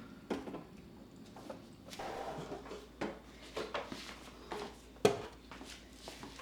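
Household objects being handled and set down: a series of light knocks and clicks, the loudest about five seconds in.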